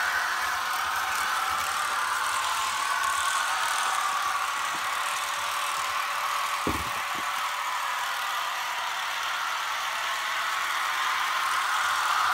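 Märklin H0 model train, a BR 146.5 electric locomotive pulling bi-level coaches, running steadily along the track with a continuous whirring rumble. A short knock comes about two-thirds of the way through.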